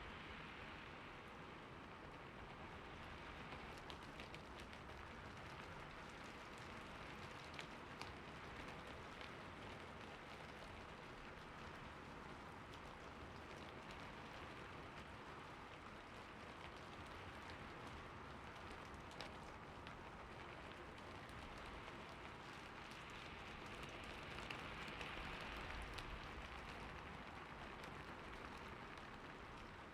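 Steady soft rain with scattered individual drop ticks, swelling a little near the end.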